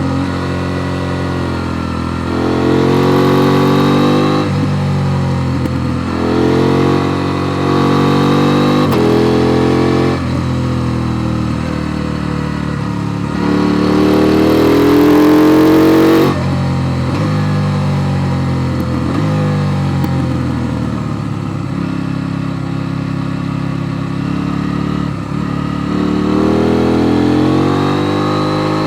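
KTM Duke 890 R's parallel-twin engine pulling through the gears on a mountain climb. Its pitch rises under throttle and drops back at each gear change. The hardest pull comes about halfway through and ends with the throttle shut abruptly.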